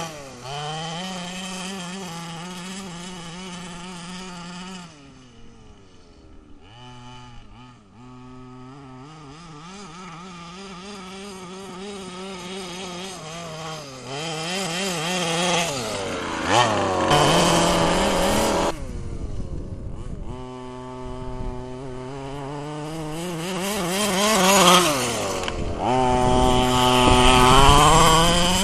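Small two-stroke petrol engine of an FG Marder large-scale RC model running through a home-made exhaust pipe. It runs at a steady speed, drops to a low idle, then is revved up and down several times, its pitch rising and falling.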